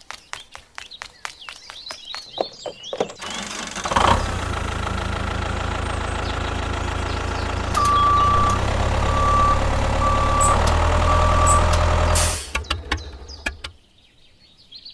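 A run of quick clicks, then a vehicle engine starts and runs steadily, growing louder partway through. Four short, evenly spaced beeps like a reversing alarm sound over it before the engine cuts off suddenly, followed by a few clicks.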